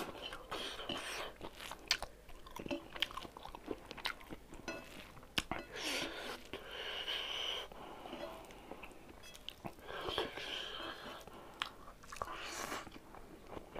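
Close-up mouth sounds of a person chewing a mouthful of rice eaten by hand, with irregular small clicks and smacks.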